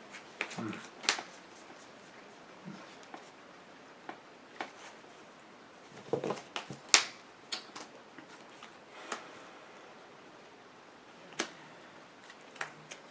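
Trading cards being handled on a tabletop: drawn, slid and set down, making scattered short clicks and taps at uneven intervals, with a small cluster about six to seven seconds in.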